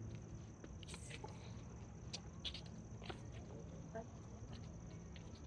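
Faint, steady high-pitched chirring of crickets, with a few short faint taps scattered through it.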